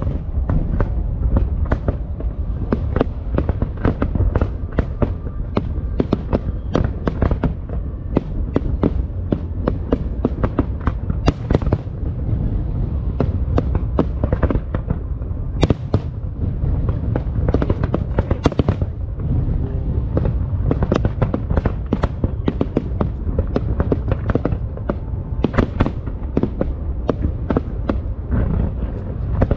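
Aerial fireworks going off in rapid, irregular succession: many sharp bangs and crackles, several a second, over a continuous low rumble of booms.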